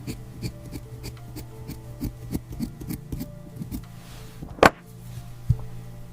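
Soft background music with small, irregular clicks and taps of hand tools working on watch parts, a sharp louder burst about four and a half seconds in and a low knock just after.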